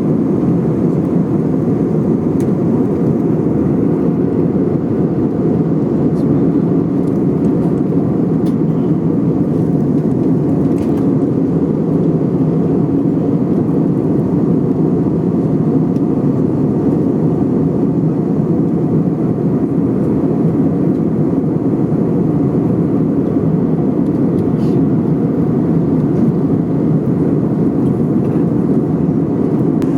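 Steady cabin noise of an airliner in flight: a constant low roar of engines and rushing air, with a few faint clicks.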